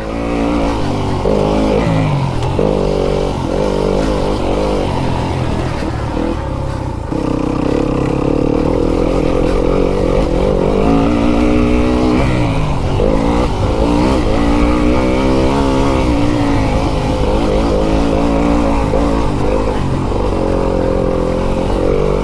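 Fantic enduro dirt bike engine being ridden hard around a motocross track, its pitch rising and falling over and over as the throttle is opened and closed, with a brief easing off about seven seconds in.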